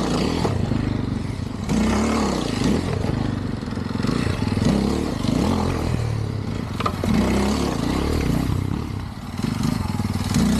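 Dirt bike engine being ridden hard, revving up and falling off again and again through the throttle and gear changes, with a sharp knock about seven seconds in.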